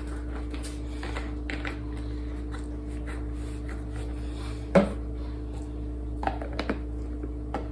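Light clicks and knocks of things being handled on a counter, with one sharper knock about five seconds in, over a steady low electrical hum.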